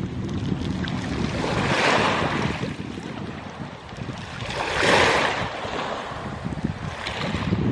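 Sea waves washing in on the shore, a swell of hiss about every three seconds, with wind rumbling on the microphone underneath.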